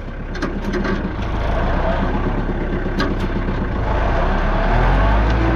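Diesel engine of heavy earthmoving equipment running and growing louder, its pitch shifting near the end. A few sharp knocks about half a second in and again around three seconds.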